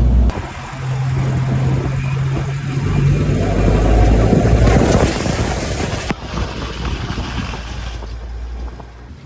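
Jeep engine running at trail speed, with a rushing noise that swells through the middle seconds and then cuts off abruptly about six seconds in.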